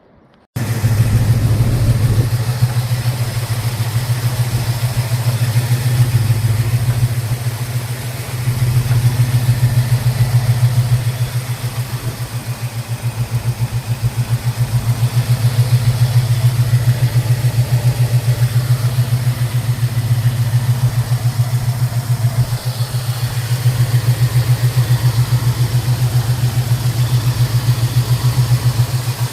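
A 1964 Chevrolet Malibu's mildly built 350 cubic-inch V8, breathing through long-tube headers and dual exhaust, is running at idle with a steady, even exhaust pulse. The sound cuts in suddenly about half a second in.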